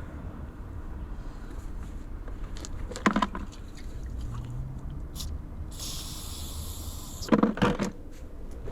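A short hiss from an aerosol cleaner spray, lasting a little over a second, about six seconds in, with a few sharp clicks and knocks of small metal parts being handled before and after it.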